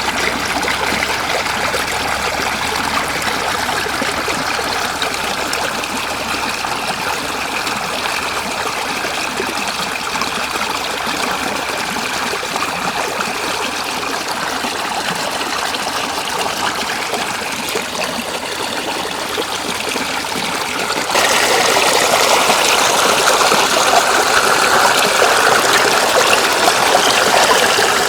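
Shallow floodwater running steadily, a continuous rush of flowing water; about 21 seconds in it suddenly becomes louder and brighter.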